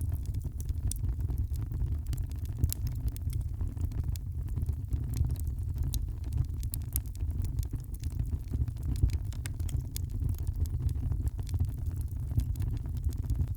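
Wood fire burning in a fireplace, crackling and popping in many small irregular snaps over a steady low rumble.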